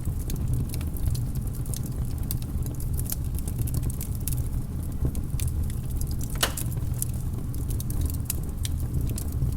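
Wood fire crackling: irregular sharp pops and snaps over a steady low rumble, with one stronger pop about six and a half seconds in.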